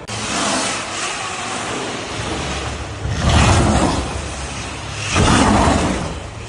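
Rushing, whooshing noise of electric dirt bikes riding an indoor track, with no engine note, swelling three times.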